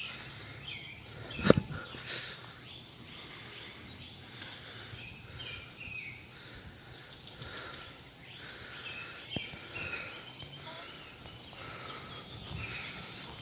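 Hens making short, soft calls in an irregular string every half second or so. There is one sharp loud knock about a second and a half in.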